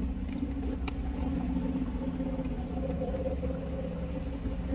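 Steady low rumble of a car heard from inside the cabin, with a few faint clicks about a second in.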